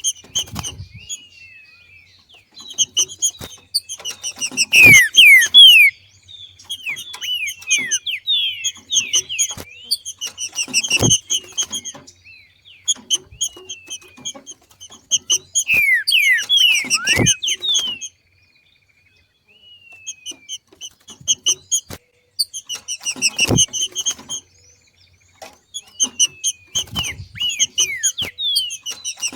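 Green-winged saltator (trinca-ferro) giving its rapid chattering 'macheado' calls, the excited call of a bird coming into breeding condition, in runs of a few seconds with quick falling whistled notes mixed in. A few sharp thumps stand out among the calls.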